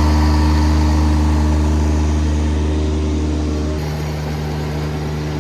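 Engine idling steadily, with a deep low hum. About four seconds in, its note changes abruptly and drops slightly in level.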